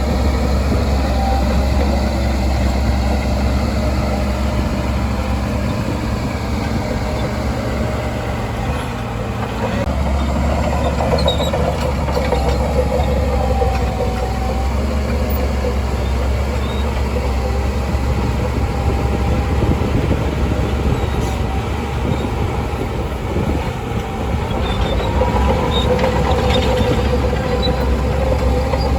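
Shantui DH17C2 bulldozer's diesel engine running steadily with a deep drone, with a wavering high-pitched squeal over it.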